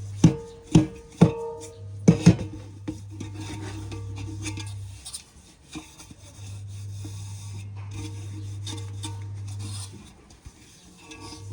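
A metal cooking pot knocked and clanking about five times with a short ring, then a long stretch of hands rubbing and scraping over the pot, oil being rubbed onto its outside so the soot from the fire will wash off easily. A steady low hum runs underneath.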